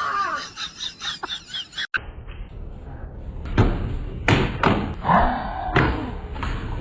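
A cat's yowling meows, then after an abrupt cut a run of heavy thumps, about six in three seconds, with a short wavering call among them.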